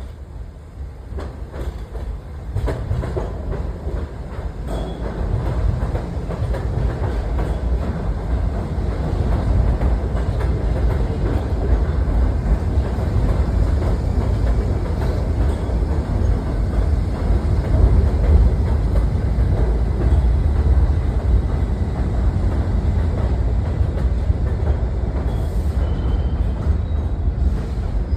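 New York City subway train running on the rails, its low rumble building over the first few seconds and then staying loud and steady.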